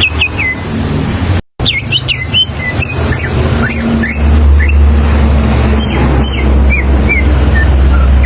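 Greater green leafbird (cucak ijo) singing: a run of short, clear whistled notes, each sliding down in pitch, over a steady low rumble. The sound cuts out completely for a moment about a second and a half in.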